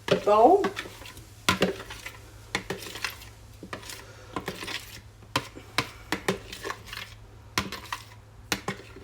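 A spoon knocking and scraping against a food container and bowl as cooked pasta in sauce is tipped and scraped out into the bowl: irregular clinks and taps.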